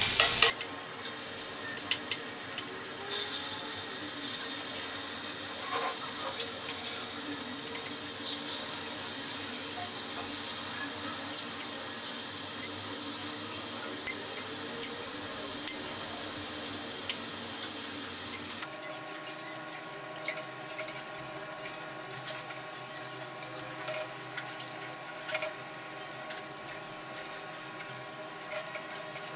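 Chicken kebabs frying in clarified butter in a pan: a steady sizzle with scattered light clicks. The sizzle turns quieter about two-thirds of the way through.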